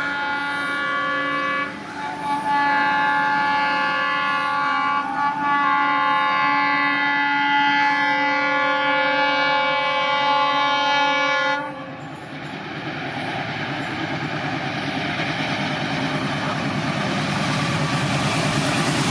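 Indian Railways diesel locomotive's multi-tone horn: a short blast, then a long blast of about nine seconds that cuts off just past the middle. After it, the rushing and rail clatter of the train approaching at speed, growing louder.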